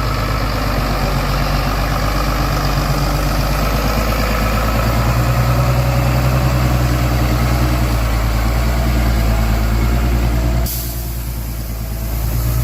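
Heavy truck's diesel engine running steadily, its note strengthening a little partway through. About two-thirds of the way in there is a brief hiss, after which the engine sound drops lower.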